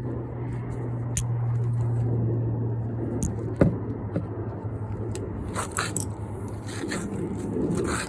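Clicks and short scrapes of an oil filter and tools being handled, with the most scraping near the end, over a steady low hum that fades partway through.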